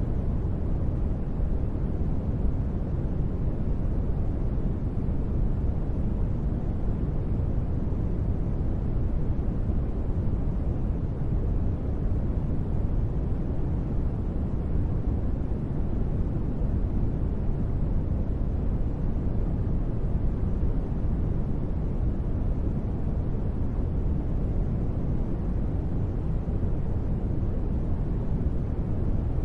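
Steady synthetic noise ambience: a deep, even rushing hiss, heaviest in the low end, with no changes or events.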